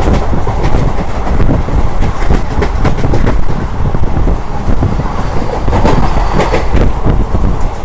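Moving train running along the track: a loud, steady low rumble with the wheels clattering over rail joints.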